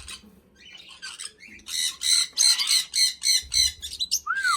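Parrot squawking: a rapid series of harsh calls, about three or four a second, starting about two seconds in, then a short rising-and-falling whistle near the end.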